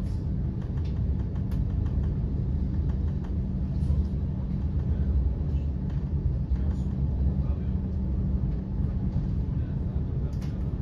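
Cabin noise of an electric regional train running at speed, heard from inside the passenger compartment: a steady low rumble from the wheels on the rails and the running gear, with a few faint clicks.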